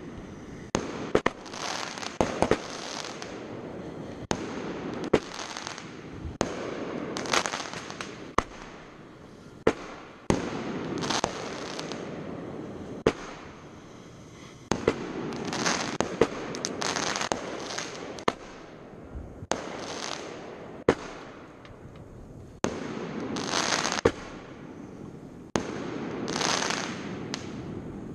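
Fireworks display: a rapid, irregular string of sharp bangs from shells bursting, with dense crackling stretches in between.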